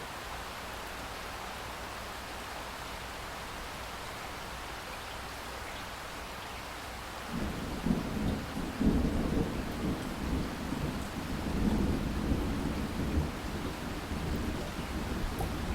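Steady heavy rain falling. About seven seconds in, a long rumble of thunder breaks in and keeps rolling, swelling several times over the rain.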